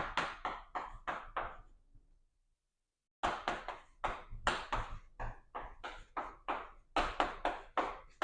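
Handwriting on a writing surface: quick runs of short tapping strokes, about three or four a second, with a dead-silent gap of about a second just before the halfway point.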